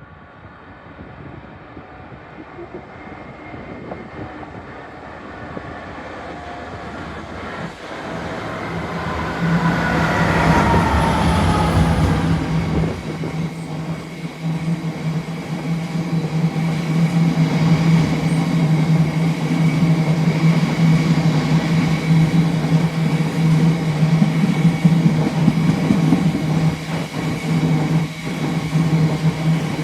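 Class 66 diesel-electric locomotive with its two-stroke EMD V12 approaching and passing. It grows louder for about ten seconds, its whine falls in pitch as it goes by, then a steady low tone and rumble of the train rolling past carries on.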